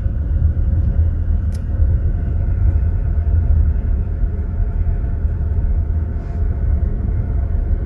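Steady low rumble of a moving passenger train heard from inside a compartment car, with a single light click about a second and a half in.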